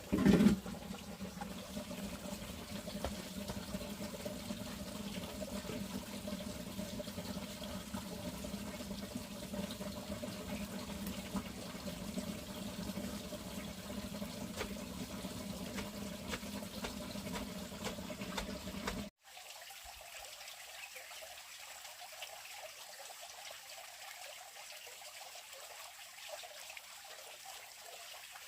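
Water running steadily, with a brief louder low sound just after the start. About two-thirds through it cuts abruptly to a quieter, thinner trickle.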